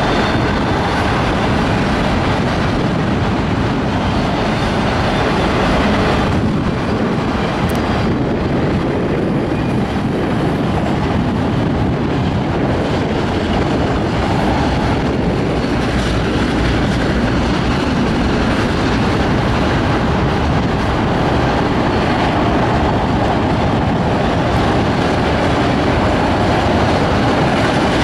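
Freight train of autorack cars rolling past: steady noise of steel wheels running on the rails.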